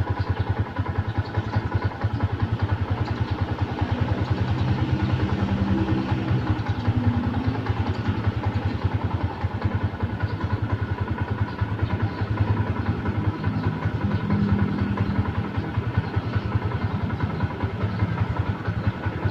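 Stock Yamaha Sniper motorcycle's single-cylinder four-stroke engine running through its stock exhaust with a steady, even pulse. The pitch rises briefly a few times, around a third of the way in and again past the middle.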